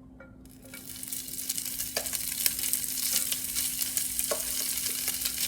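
Rotisserie chicken and barbecue sauce sizzling on a hot griddle, the sizzle starting about half a second in and growing louder, with a couple of light utensil taps.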